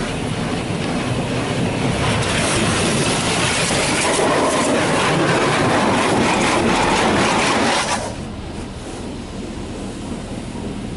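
Touchless automatic car wash spraying clear coat protectant onto a truck, heard from inside the cab: a loud steady hiss of spray on the body that cuts off suddenly about eight seconds in, leaving a low steady hum of the machinery.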